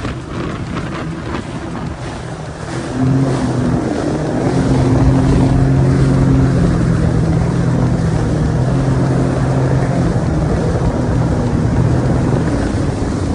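Sea-Doo personal watercraft engine running on the water. It picks up about three seconds in, then holds a steady drone with wind and water noise.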